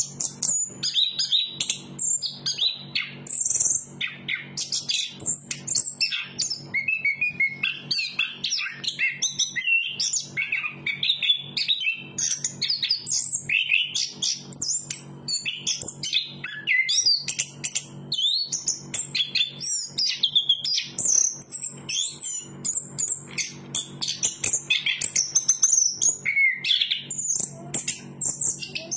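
Chestnut-capped thrush singing continuously: a fast, varied stream of high whistled notes, slurs and trills, over a faint steady low hum.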